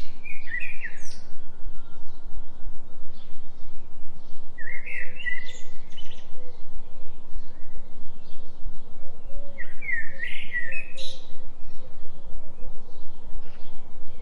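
Songbird phrases of quick rising and falling chirps, three times about five seconds apart, over a steady low binaural tone that pulses evenly several times a second.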